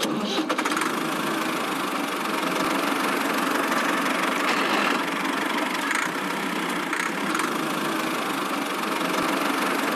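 A small motor running steadily with a dense mechanical whirr and rattle, with no deep bass.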